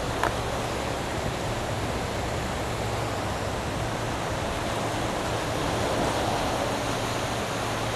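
Steady rushing wash of sea waves, swelling slightly about six seconds in, with one brief click shortly after the start.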